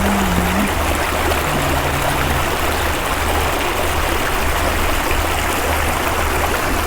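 Steady rush of running water from a man-made stream or fountain, with an uneven low rumble underneath.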